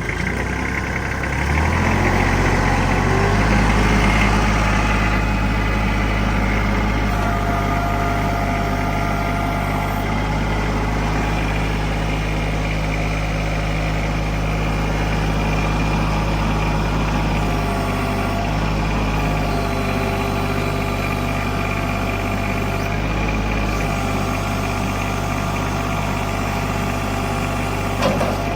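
Kubota L3130 tractor's diesel engine speeding up over the first few seconds as the throttle is opened, then running steadily at the higher speed. It runs evenly, the sound of an engine in good order.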